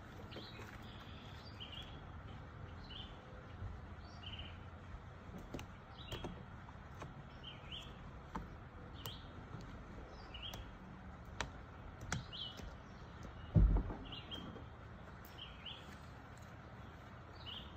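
Small bird chirping repeatedly, short high chirps about every second, over a faint outdoor background. A few light clicks and, about fourteen seconds in, one dull thump, from the blind's window being unlatched from inside.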